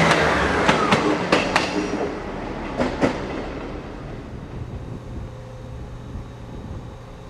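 A train running past and receding, its wheels clicking sharply over rail joints several times in the first three seconds, the rumble fading away to a low hum.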